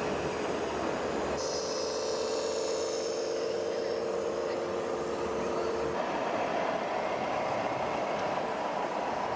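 Small electric motor and plastic gearbox of a toy remote-control tractor running with a steady whine. The sound changes abruptly twice.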